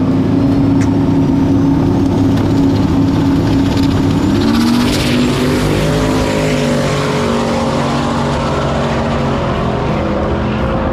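Two drag race cars making a pass side by side at full throttle, their engine notes holding steady and then stepping up in pitch about four seconds in.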